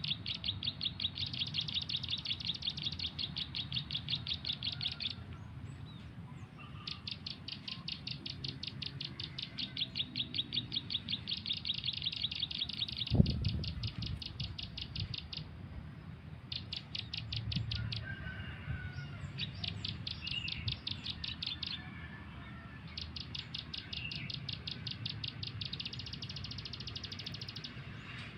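Bird-call recording played from a phone as a trapping lure: fast, evenly repeated high chirps in bouts of several seconds with short breaks, over a low background rumble. Scattered calls of other birds answer, and there is a single thump about halfway.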